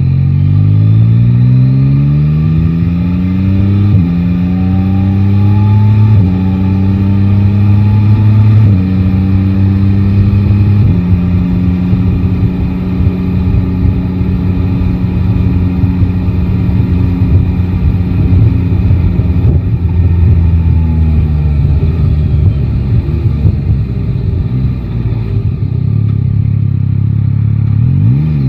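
Yamaha Tracer 9 GT's three-cylinder engine pulling hard through the gears: the pitch climbs and drops back at four upshifts in the first eleven seconds. It then holds a steady cruise, falls away gradually as the bike slows, and revs up quickly again near the end.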